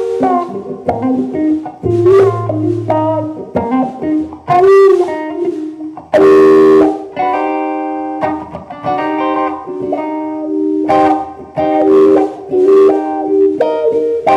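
Guitar music: a melody of single plucked notes that ring and fade, with a fuller strummed chord about six seconds in.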